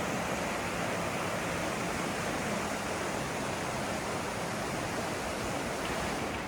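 The Landwasser, a mountain river, rushing steadily through the gorge as an even roar of water.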